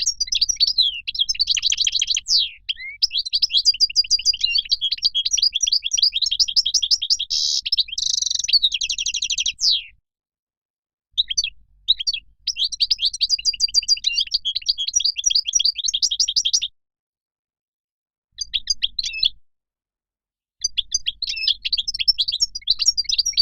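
European goldfinch song: fast runs of twittering chirps and trills in several phrases, the first about ten seconds long. The phrases are broken by sudden dead-silent gaps of one to two seconds, as in an edited recording.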